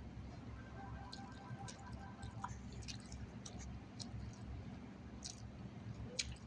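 Close-miked chewing and mouth clicks of someone eating chicken salad and pita bread, with scattered small wet clicks.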